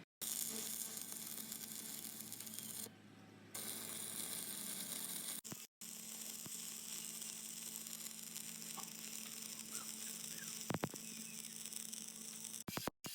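Stick welding arc sizzling and crackling steadily on a steel excavator bucket tooth, with a steady low hum underneath. It breaks off briefly a few times.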